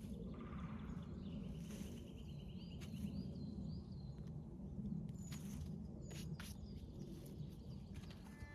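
Woodland ambience: birds calling over a steady low rumble. There is a buzzy trill about a second in, a few short chirps after it, and a couple of high whistled notes later, with scattered sharp clicks and snaps throughout.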